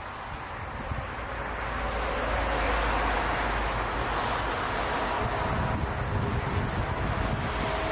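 Jet airliner on landing approach, its engine noise swelling over the first few seconds and then holding, with a faint whine in it. Gusty wind buffets the microphone throughout.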